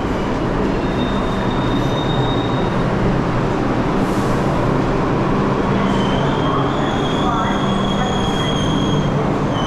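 New York City subway train running on the rails with a steady rumble and high metal-on-metal wheel squeals: a short one about a second in and a longer one from about six to nine seconds in.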